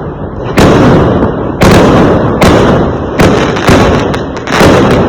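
Fireworks exploding: about seven loud bangs, each with a rumbling tail that runs into the next, coming closer together toward the end.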